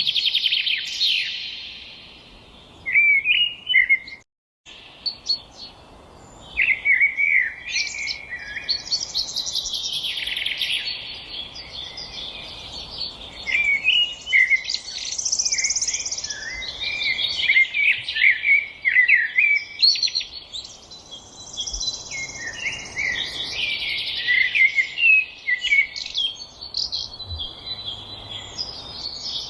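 Songbirds singing together in a dense chorus of overlapping chirps and trills. The sound cuts out completely for a moment about four seconds in.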